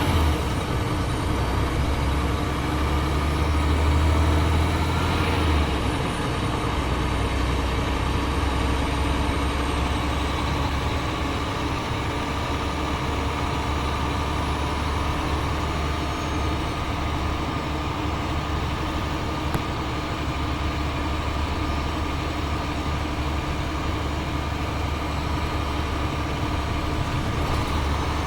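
Cummins ISL inline-six diesel engine of a 2007 Gillig Advantage transit bus running steadily at low revs, most likely idling. Its low drone is heavier for the first five seconds or so, then settles to an even level.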